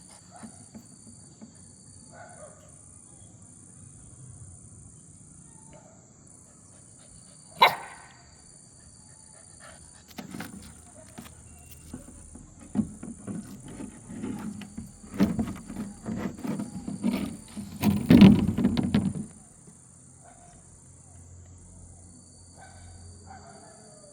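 A dog gives a rough run of short growls and barks for about nine seconds midway through, loudest near the end of the run, over a steady high drone of crickets. A single sharp crack sounds a little before the dog starts.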